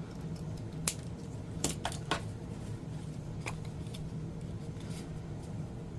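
Scissors snipping paper, a handful of short sharp snips in the first three and a half seconds, over the steady low hum of an air conditioner.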